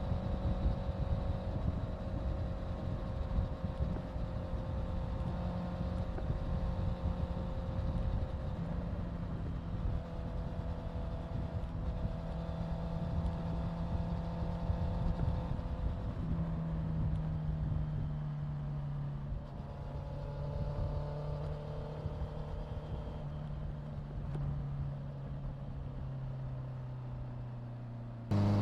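Honda CBR650F's inline-four engine running at cruising revs with wind rush on the microphone, its pitch easing down in small steps over the stretch. Right at the end the throttle opens and the engine gets suddenly louder, its pitch rising.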